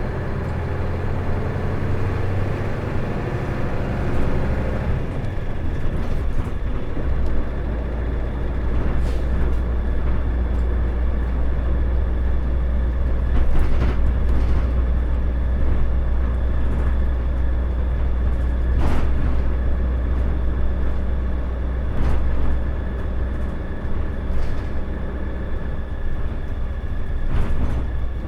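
Isuzu Erga (KL-LV380L1) city bus running, heard from inside. For the first few seconds the engine note climbs as it pulls. About five seconds in it drops to a steady low drone, and a few sharp knocks and rattles come now and then.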